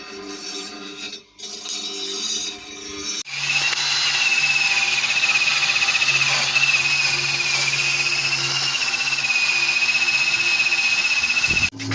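A power tool running steadily with a high, slightly wavering whine, starting about three seconds in and cutting off suddenly near the end.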